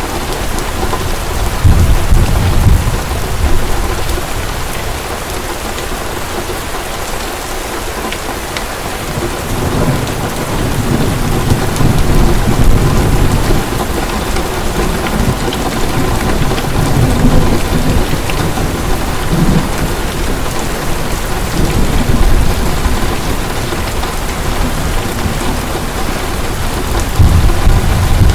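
Heavy rain pouring steadily, with rolls of low thunder rumbling through it several times, the strongest about two seconds in and near the end.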